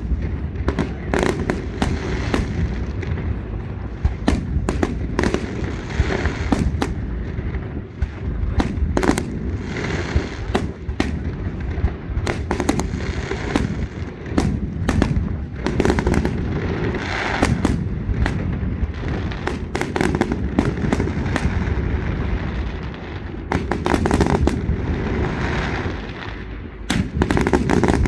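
Fireworks display: a rapid, irregular series of sharp bangs from bursting shells over a continuous low rumble, with repeated short spells of hissing crackle.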